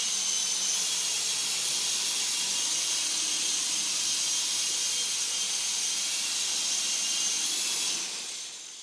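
E-sky coaxial RC helicopter flying: the steady high-pitched whine of its small electric motors and the hiss of its twin rotors, fading away near the end.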